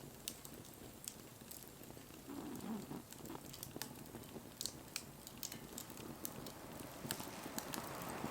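Wood fire burning, crackling with scattered sharp pops over a soft steady hiss.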